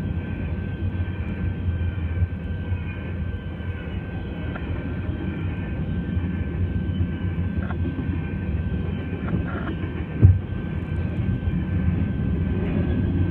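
CN freight train of covered hopper cars rolling past: a steady low rumble of wheels on the rails, with one sharp bang about ten seconds in.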